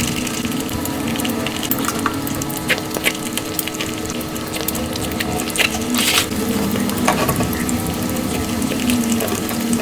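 Close-miked eating sounds sped up five times: a rapid, continuous run of wet chewing, smacks and mouth clicks from someone eating soft sweets, over a steady low tone.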